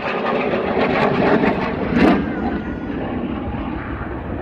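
Hornet fighter jet flying past at low altitude, its jet noise swelling to its loudest about two seconds in, then easing off.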